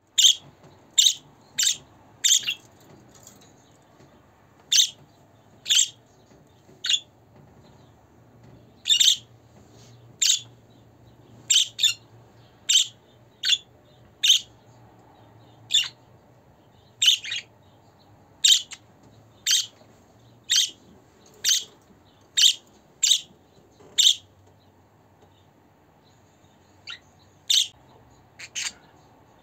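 Budgerigar giving short, sharp chirping calls, roughly one a second, with a pause of a few seconds near the end.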